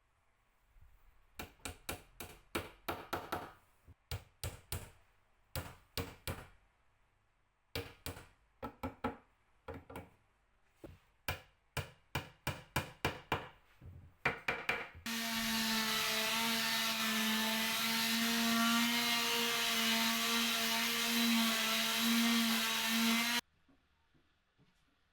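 Repeated sharp knocks and taps on wood in quick clusters, then a power tool's motor runs steadily for about eight seconds and cuts off suddenly.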